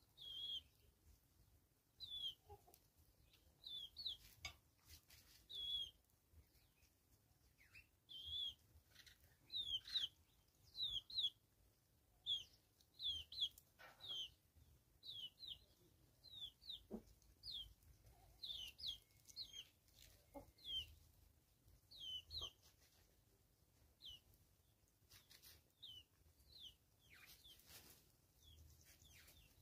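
Birds chirping: short high-pitched calls, often in pairs, repeating about once a second.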